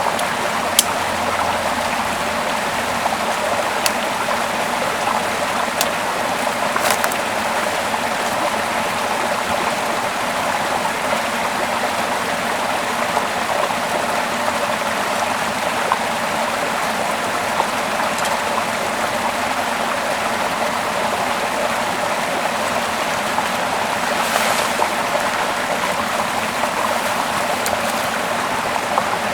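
A small river flowing steadily, with a continuous rush of water. A few short clicks sound in the first several seconds.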